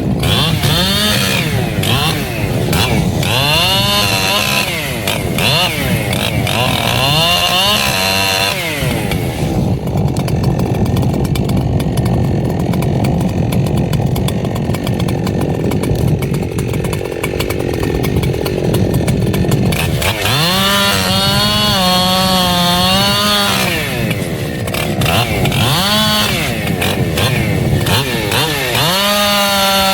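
Echo CS-7310 two-stroke chainsaw running hard, revved up and let fall back several times. Through the middle it holds a lower, steadier pitch, then revs high again near the end.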